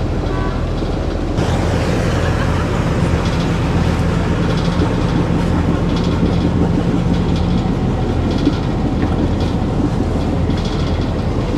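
A tour boat's engine running steadily with a low drone, under a wash of broad rushing noise from wind and water that gets louder about a second and a half in.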